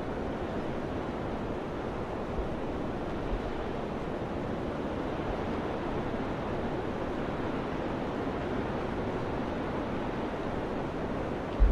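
Steady wind rushing, a surf-like hiss, with a few brief low thumps of wind buffeting the microphone, the strongest near the end.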